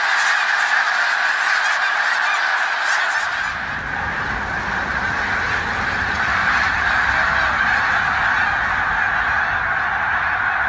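A large flock of birds calling all at once, a dense, steady honking chorus. About three seconds in, a low rumble joins underneath.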